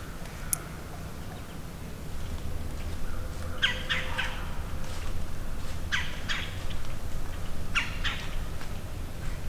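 A bird calling three times, each a quick run of two or three harsh, falling notes, over a steady low rumble. A single sharp click comes just after the start.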